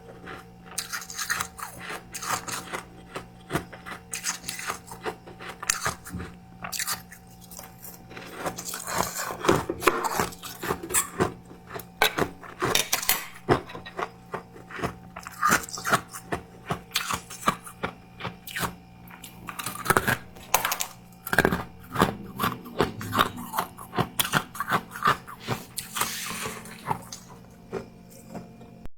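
Close-miked crunching of freezer frost, a dense run of sharp cracks and crackles, thickest in a few spells, over a faint steady low hum.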